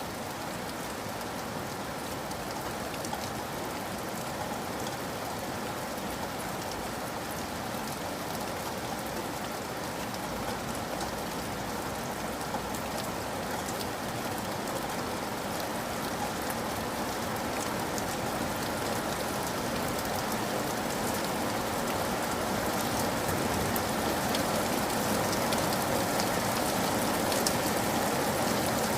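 Steady rain falling, a dense hiss with fine patter of individual drops, slowly growing louder over the half minute.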